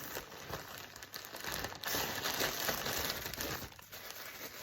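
Thin plastic packaging bags crinkling and rustling as the clothing items are handled, loudest in the middle.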